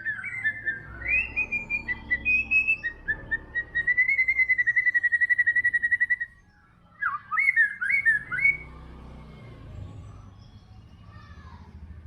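White-rumped shama singing: clear whistled phrases, then a fast trill held on one pitch for about two seconds. After a short pause comes a run of swooping notes, and then only faint notes over a steady low hum.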